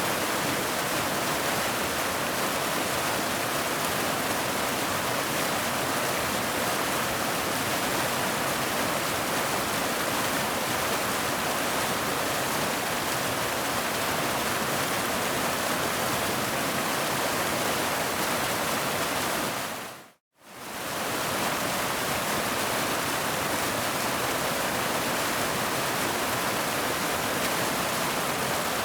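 Waterfall rushing in a steady, even wash of water noise. About two-thirds of the way through, it fades out to silence for a moment and then fades straight back in, like a loop seam.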